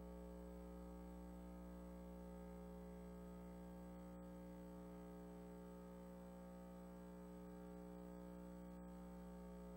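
Near silence with a steady electrical hum from the recording or sound system.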